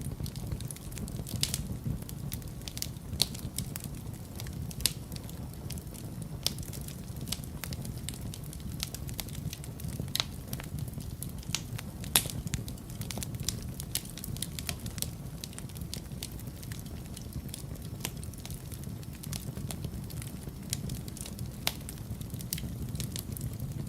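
Wood fire burning in a fireplace: a steady low rumble of the flames with irregular crackles and occasional louder pops from the burning logs.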